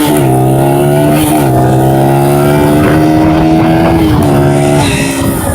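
Dirt bike engine running at a steady, loud pitch, with two brief dips and recoveries in engine speed early on; near the end the engine note falls away and wind noise on the microphone takes over.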